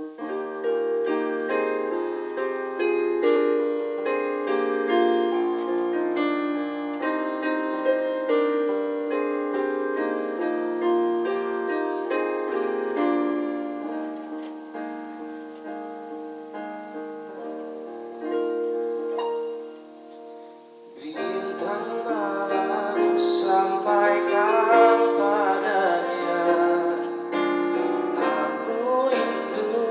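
Keyboard playing a slow piano-voiced song intro of held chords and melody; about two-thirds of the way through, after a brief pause, a singing voice comes in over the accompaniment.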